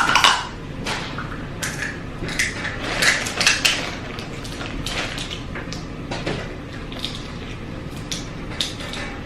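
Close-up eating sounds from a seafood boil: an irregular run of short snaps, smacks and rustles as snow crab and the rest of the boil are handled and eaten by hand.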